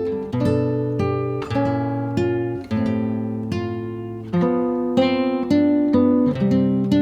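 Background music: acoustic guitar playing plucked and strummed chords, about two a second.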